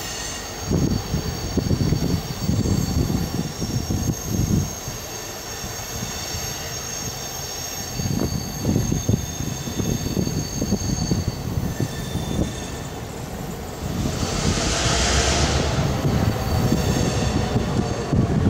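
EMD GP9 diesel locomotive approaching with a train of tank cars: a steady high squeal of wheels on the rails over an uneven low rumble. A broad hiss swells about fourteen seconds in.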